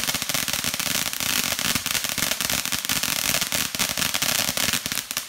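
A ground fountain firework burning with a dense, continuous crackle over a steady hiss.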